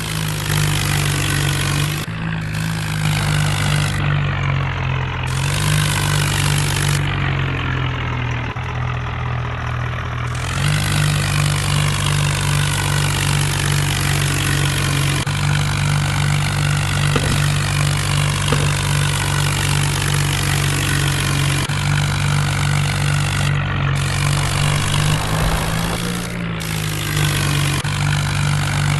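Tractor diesel engine running hard and steady, its pitch dipping and rising a few times, as the tractor works to get through deep mud.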